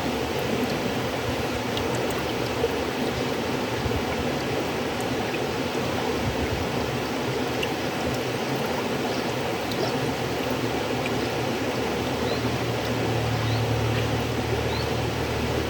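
River water flowing in a steady, continuous rush. A low rumble in it grows a little stronger near the end.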